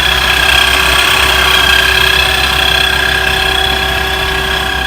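Engine running at a steady speed, with a steady high-pitched whine over it.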